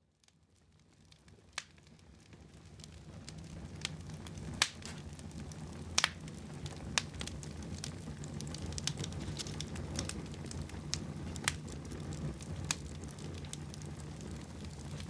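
Wood fire crackling in a fireplace, with sharp pops every second or so over a steady low rumble of burning. It fades in from silence over the first few seconds.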